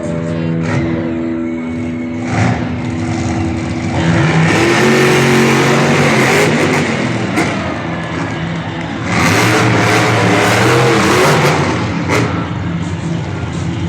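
Monster truck engines revving hard in an arena, surging loudly about four seconds in and again about nine seconds in, with a few sharp cracks among the noise.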